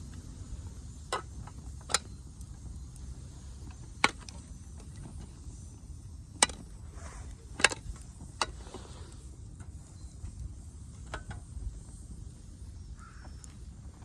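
Wood fire burning in a fire-pit stand, crackling with sharp, irregular pops every second or two.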